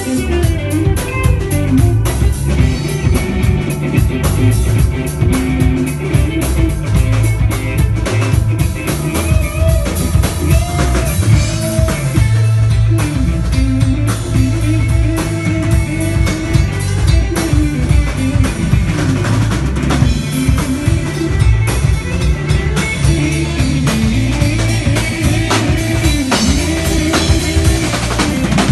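Live band playing an instrumental passage with drum kit, guitar and bass.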